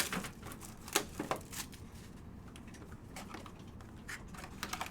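Select H2 football trading-card packs being torn open and the cards handled: a string of faint crinkles, rustles and sharp clicks, strongest at the start and about a second in.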